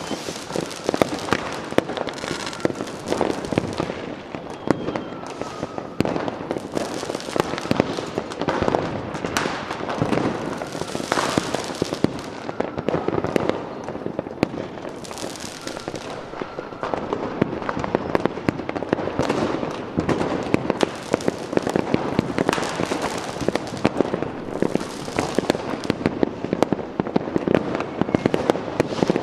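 Fireworks display: a dense, continuous run of cracks and bangs, with crackling, hissing bursts swelling up now and then and faint whistles of rockets.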